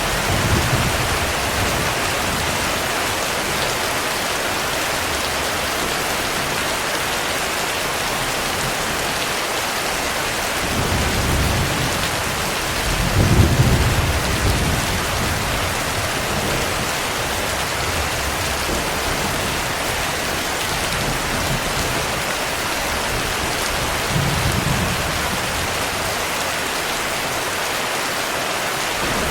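Steady heavy rain hissing, with low rolls of thunder rumbling through it several times; the loudest rumble comes about halfway through.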